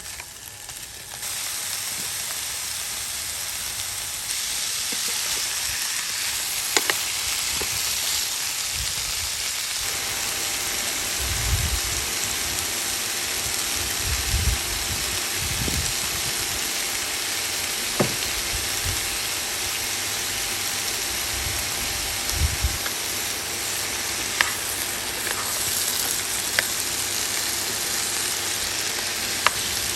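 Vegetables sizzling in a hot pan on a portable induction hob, a steady frying hiss that sets in about a second in, with a few light clicks of a utensil in the pan.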